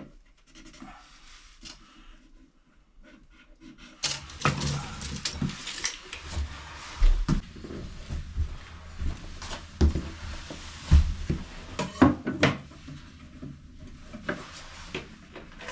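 Irregular knocks, clicks and scraping of hands working with tools and fittings, faint at first and busy from about four seconds in, with several sharper knocks.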